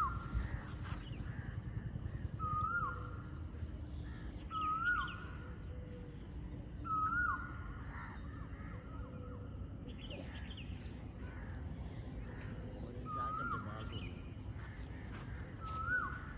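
A bird calling over and over: a short note that rises slightly and then drops sharply, repeated every two to three seconds with a longer pause midway. Fainter chirps of other birds sound higher up, over a low rumble of wind on the microphone.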